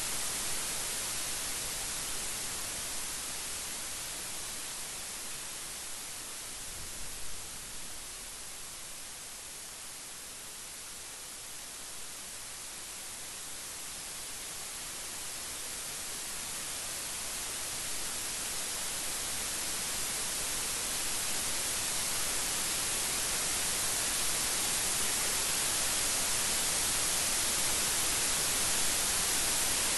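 Steady rain hissing. It eases about ten seconds in, then builds steadily louder, with no thunder.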